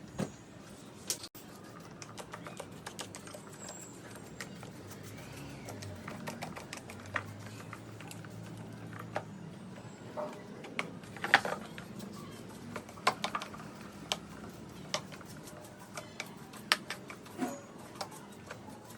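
Irregular light clicks and taps of hand tools and the table fan's plastic parts being handled, with one sharper knock about eleven seconds in.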